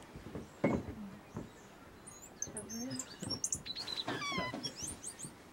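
Songbirds calling: a scatter of high chirps and whistles, with a quick run of falling whistled notes about four seconds in. Faint voices in the background.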